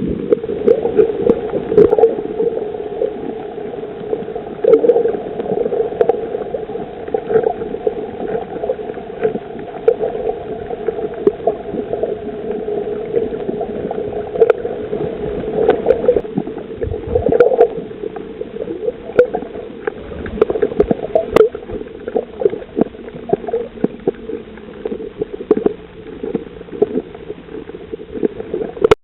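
Underwater sound on a coral reef: a steady hum with many irregular sharp clicks and crackles over it, and a second, lower hum joining about two-thirds of the way through.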